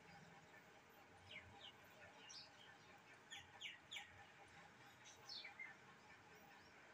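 Faint bird chirps over near silence: several short, high calls that slide downward, coming in scattered groups of one to three.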